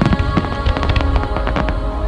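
Fireworks crackling and popping in quick succession, many sharp cracks a second, over background music with sustained tones.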